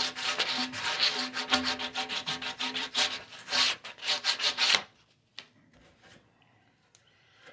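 Bottom of a PVC pipe stand being sanded in rapid back-and-forth strokes, roughing up the plastic so that glue will grip. The strokes stop about five seconds in.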